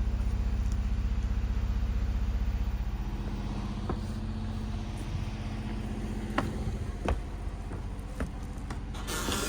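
A steady low motor hum with a fast pulsing beat that drops off about three seconds in, followed by several sharp knocks and clicks.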